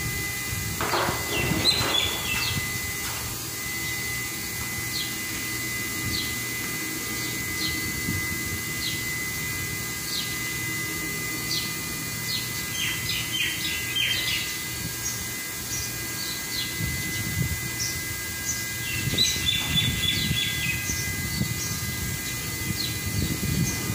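Small birds chirping in scattered bursts of short, high chirps, over low background rumble and a faint steady high whine.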